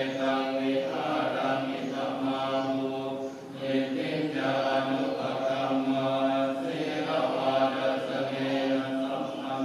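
Voices chanting together on long held tones over a steady low drone, with a brief break about three and a half seconds in.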